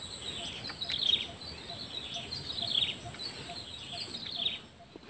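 A bird calling in a string of short, falling chirps, roughly two a second, over the steady high-pitched drone of insects, which drops in level about three and a half seconds in.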